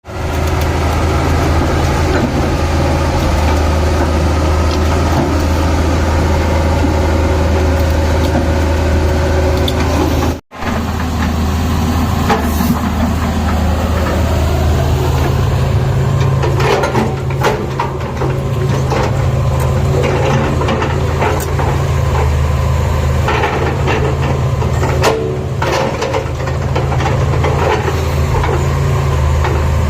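Tata Hitachi excavator's diesel engine running with a steady low hum. From about twelve seconds in, irregular knocks and clanks sound over it. The sound cuts out for an instant about ten seconds in.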